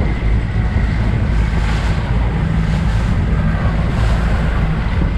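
Steady rush of wind on the microphone mixed with water and motor noise from a Key West 189FS outboard boat running on open water.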